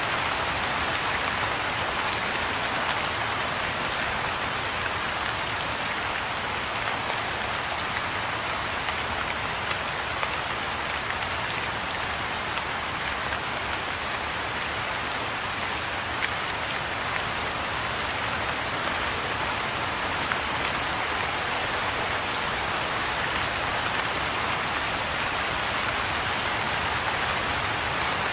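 Soft rain falling steadily into a pool of water: an even hiss of drops striking the surface, with a few single drops standing out now and then.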